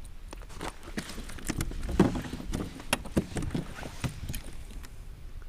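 Irregular knocks and taps on a kayak, several a second and uneven, the loudest about two seconds in, over a steady low rumble.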